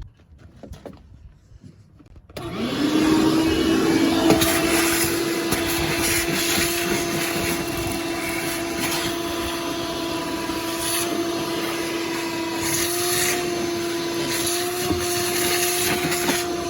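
Vacuum cleaner switched on about two seconds in, its motor spinning up quickly to a steady whine and running on while vacuuming out the truck's cab.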